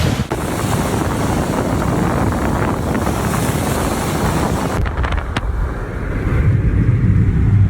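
Wind rushing over the microphone. The hiss drops away sharply about five seconds in, leaving a low buffeting rumble that grows louder near the end.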